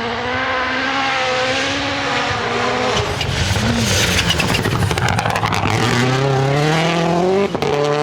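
Hyundai i20 N Rally1 rally car at full throttle on gravel, its turbo four-cylinder engine note shifting and climbing through the gears. A rough spray of noise from tyres and stones swells in the middle, and a long rise in pitch is cut short near the end by a gear change.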